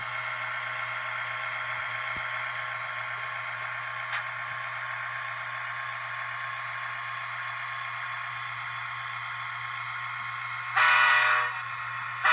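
Digitrax SDN144K0a sound decoder in an N-scale Kato F7 model locomotive, playing a steady diesel engine sound through a small 16 mm speaker, then two short horn blasts about a second and a half apart near the end.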